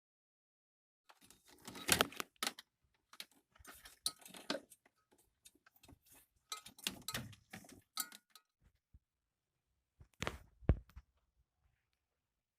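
Metal clinking and rattling from tools and small parts being handled during repair work, in scattered bursts of clicks and knocks with the loudest about two seconds in and near the end.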